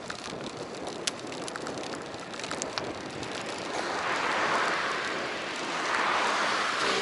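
Wind and road noise on a bicycle-mounted action camera while riding, with scattered small clicks and rattles; the rush swells twice in the second half.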